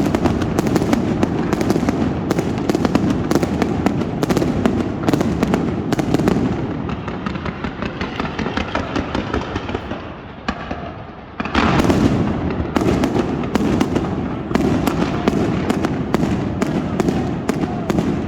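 Fireworks display: rapid, overlapping bangs and crackling. About a third of the way in the bangs thin out to a quieter crackle for several seconds, until a sudden loud burst a little past halfway brings the dense barrage back.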